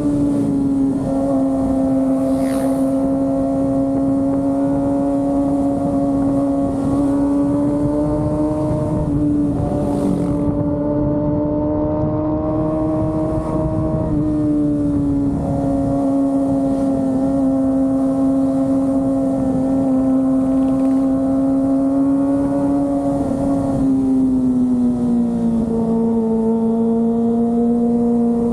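Kawasaki Ninja ZX-25R's inline-four engine running at steady high revs under way, a high, even engine note over wind noise. The pitch steps down slightly about a second in, rises briefly and settles again around the middle, and drops lower near the end.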